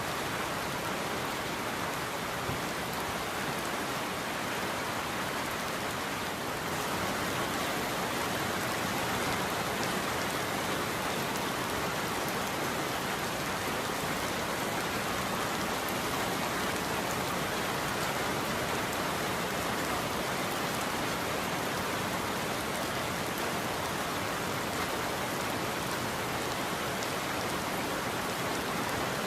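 Steady rain falling, an even hiss of many drops, growing a little louder about six seconds in.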